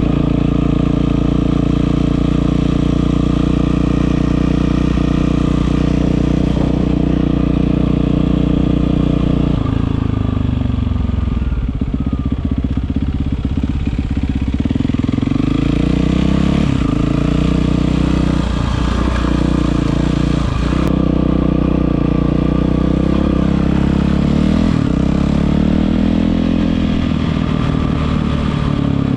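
Yamaha WR450F's single-cylinder four-stroke engine running through an Akrapovič exhaust, held at a steady speed for about ten seconds, then the revs drop and it is revved up and down several times.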